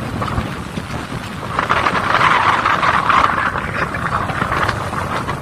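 A boat running at sea, with a steady rush of water and wind noise on the microphone. The rush grows louder from about a second and a half in until near the end.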